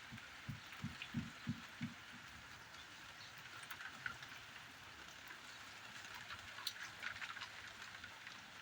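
Steady rain pattering, with individual drops ticking through it. A few low, dull thumps come in the first two seconds.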